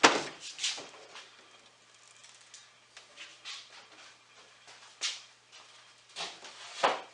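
A loose wooden drawer being pulled out and handled, with scattered knocks, clatters and scrapes of wood; its joints have come apart. A sharp knock comes at the start and another near the end.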